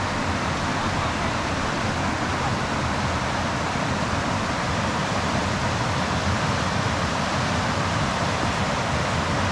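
Mountain river water rushing over rocks, a steady, even roar of water.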